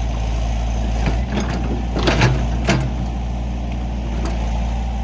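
Excavator's diesel engine running steadily, with several sharp knocks or cracks, the loudest about two seconds in.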